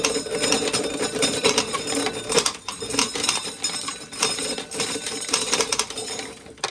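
Corn sheller stripping an ear of corn: a dense, fast rattle of kernels knocked off the cob and clattering into a pail, over a steady mechanical tone.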